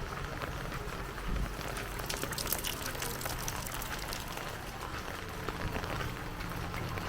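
Heavy rain falling: a dense, even hiss of many small drop impacts, thickest a couple of seconds in, over a steady low rumble.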